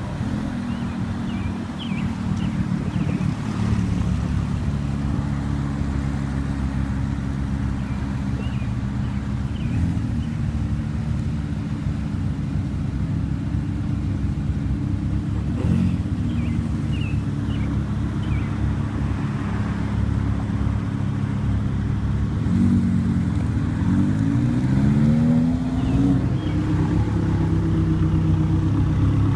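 Car engine running steadily at low revs. About three-quarters of the way through, the engine note rises and falls several times.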